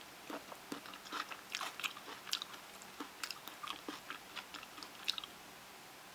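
A person chewing and eating, a run of irregular mouth clicks and smacks that stops about five seconds in; the food is the microwave-steamed eggplant dish.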